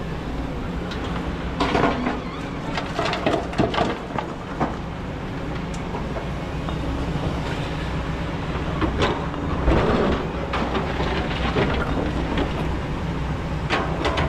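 Kobelco excavator's diesel engine running steadily under load, with bursts of metallic clanking and rattling from the machine at work, from about two to four and a half seconds in, around ten seconds in, and again near the end.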